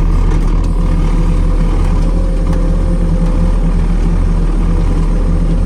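Tractor engine running steadily under load while pulling a feeder wagon, with a constant low hum and no change in speed.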